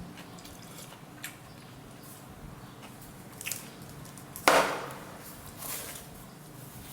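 Cutlery and bowls knocking and clinking at a table: a few sharp clicks, with one loud knock about four and a half seconds in that rings on briefly.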